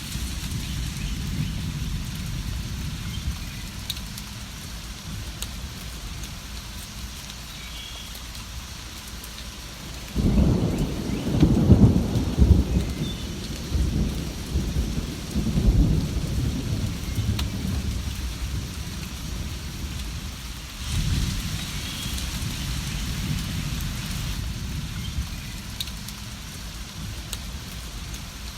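Steady rain with rolling thunder. A long low rumble builds about ten seconds in and swells several times, and a smaller roll of thunder follows a few seconds later.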